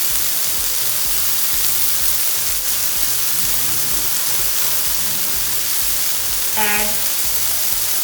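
Chicken sizzling on a hot griddle, a steady hiss, with background music with a soft regular beat underneath.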